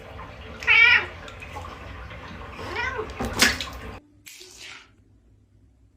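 A domestic animal calling out twice, once about a second in and again near three seconds in, over a steady background hiss that cuts off at about four seconds.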